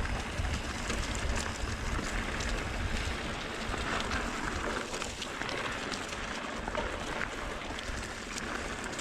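Mountain bike descending a dirt trail: wind rushing over the camera microphone and tyres rolling over dirt and gravel, with scattered sharp rattles and clicks from the bike.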